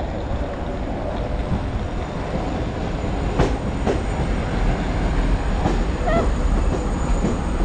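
Ouigo TGV Duplex double-deck high-speed train arriving at the platform: a steady rumble of wheels on rails that grows a little louder, with a few sharp clicks about halfway through.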